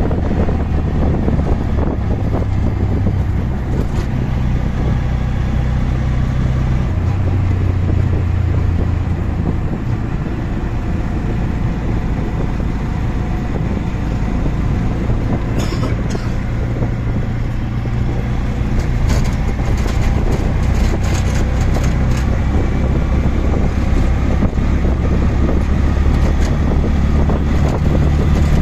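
Auto-rickshaw engine running steadily during the ride, its low drone shifting pitch now and then as it speeds up and slows. Short rattles and clatters come in bursts after about the middle.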